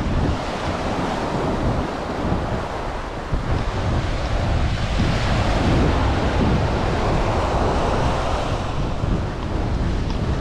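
Ocean surf breaking and washing up a sandy beach, swelling about five seconds in, with wind buffeting the microphone.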